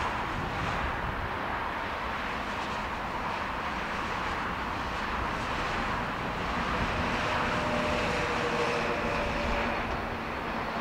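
Distant passing passenger train hauled by an electric locomotive: a steady rumbling hiss, with a faint droning tone joining about seven seconds in.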